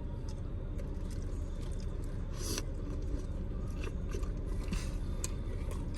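A person biting into and chewing a quesadilla close to the microphone: soft scattered wet clicks and a brief soft crunch about two and a half seconds in, over a steady low background hum.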